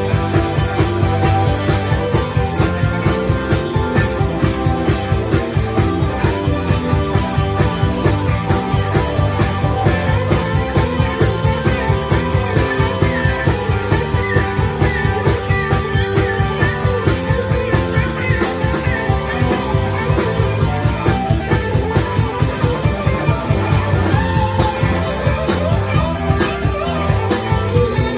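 Live band playing rock music with guitar over a steady beat.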